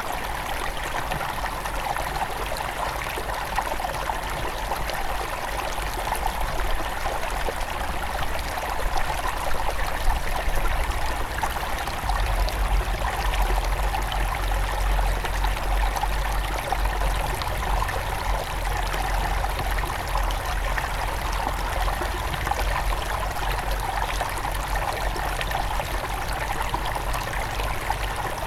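Small forest river near its source flowing steadily over rocks: a constant rushing and trickling of water. A deeper low rumble underneath grows stronger about halfway through.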